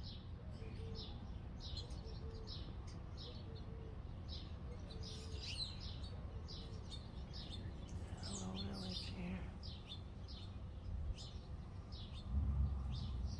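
Small bird chirping: short, high chirps repeated about twice a second, over a steady low rumble. A louder low thump comes near the end.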